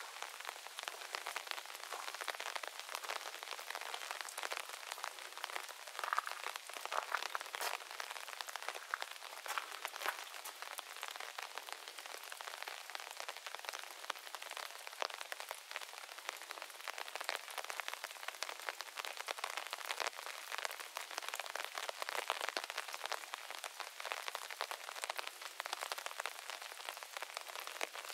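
Steady rain falling on a moss garden and the trees around it, with many separate drops heard as fine taps.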